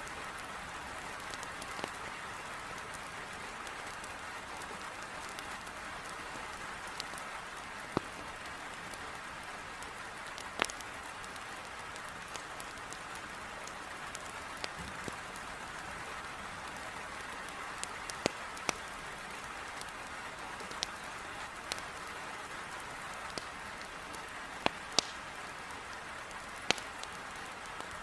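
Heavy rain beating steadily against a window, with the sharp, irregular pops and crackles of a wood fire burning in a fireplace scattered through it.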